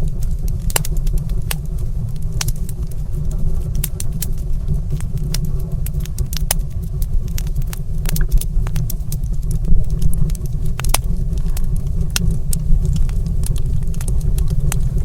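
Wood fire in a stone fireplace crackling, with sharp, irregular pops and snaps over a steady low rumble.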